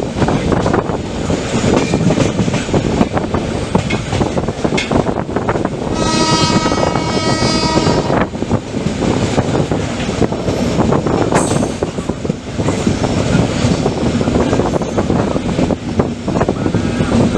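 Express train running on the rails, a continuous loud rumble with many small knocks and clacks, and a train horn sounding for about two seconds near the middle.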